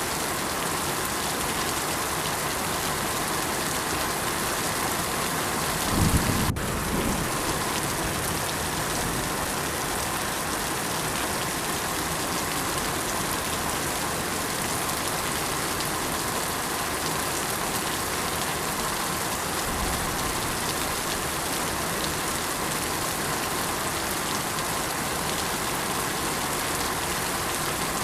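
Steady rain falling, an even hiss throughout, with a short low rumble of thunder about six seconds in.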